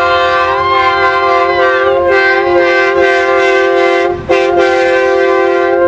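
Multi-chime train-style air horn sounding a long, loud, steady chord. It cuts out for a moment about four seconds in, then sounds again.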